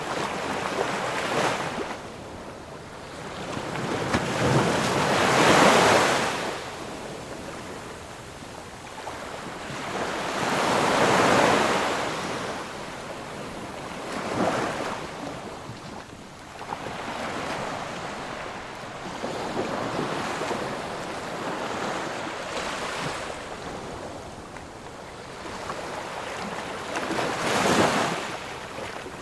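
Ocean surf: waves breaking and washing up the shore in slow surges every few seconds, the biggest swells coming about 5 seconds in and about 11 seconds in.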